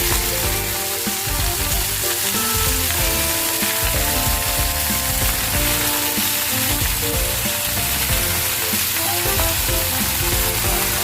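Food sizzling steadily as it fries in a pan, with music playing underneath.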